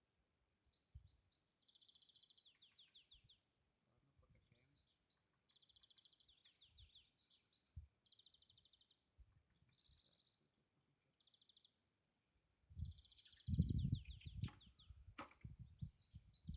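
A songbird singing short trilled phrases, high-pitched, repeated every second or two. Near the end, louder irregular low rumbling noise comes in, with a sharp click.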